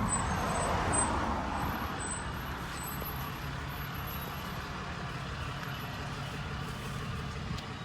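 Steady outdoor background rumble and hiss, a little louder in the first second or so.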